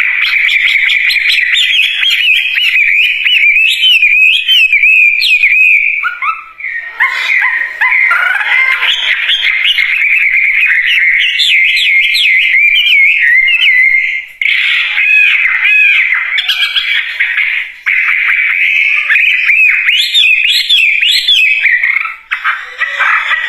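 Chinese hwamei (wambi) singing loudly: a continuous, rapid run of warbled and whistled phrases, breaking off only briefly a few times.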